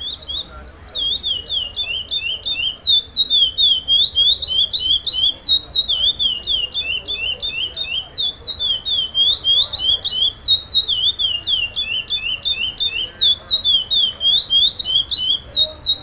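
Chestnut-bellied seed finch (curió) singing a fast, continuous string of sharp, downward-sliding whistled notes, several a second, without a break.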